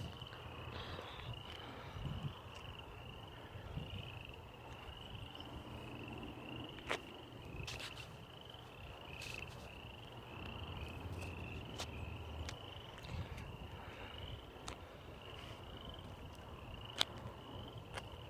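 Frogs calling steadily, a row of short high chirps repeating about twice a second, over a low rumble, with a few sharp ticks scattered through.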